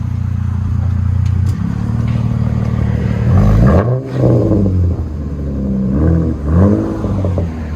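2019 Ram 1500's 3.6-litre V6 running through a 3-inch exhaust with a Dynomax Race Bullet in place of the muffler and resonator. It idles steadily, then from about three seconds in it is revved in several short blips, each rising and falling in pitch.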